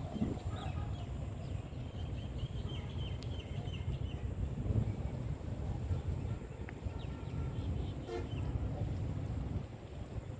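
Outdoor ambience: a steady low rumble with short bird calls over it, including a quick run of repeated chirps about two to three seconds in.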